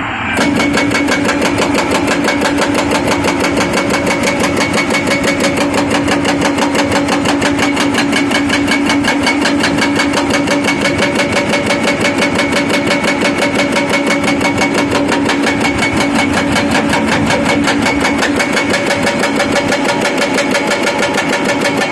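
Furukawa hydraulic breaker on a Doosan excavator hammering in rapid, even blows, about ten a second. Under it, the excavator's engine and hydraulics run with a steady hum.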